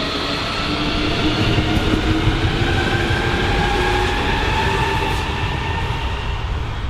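Electric train running past, its traction equipment whining in several steady tones that drift slightly in pitch over the rumble of the wheels on the track.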